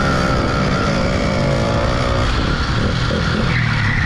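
Small motorbike engine running under way, with wind rushing on the microphone; its pitch drops about two seconds in as it eases off.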